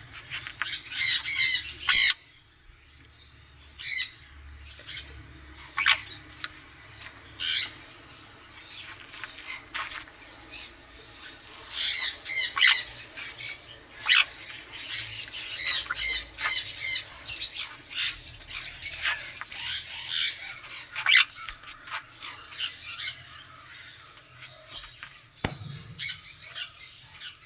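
A parrot squawking: harsh, high-pitched calls repeated every second or two, with softer chatter between them. The loudest calls come about a second in, around twelve seconds and around twenty seconds.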